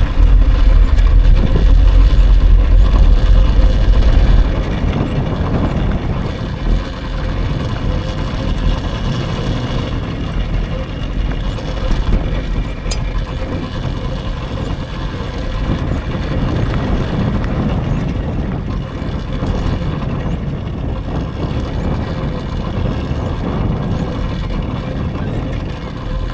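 Wind rushing over the microphone and tyre noise from a moving electric dirt bike. The low buffeting is heaviest for the first four seconds or so, then eases to a steadier rush.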